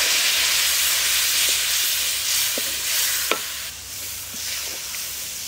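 Wet ground ginger, coconut and tamarind paste hitting hot sesame oil and fried spices in a metal pan, sizzling, while a wooden spatula stirs it. The sizzle is strongest for about the first three seconds, then dies down, with a sharp knock of the spatula on the pan a little after three seconds.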